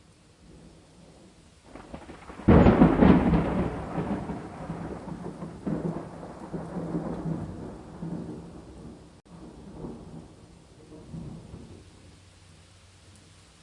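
A thunderclap breaks sharply about two and a half seconds in, then rumbles on in uneven swells and dies away over the next several seconds. Steady rain falls throughout.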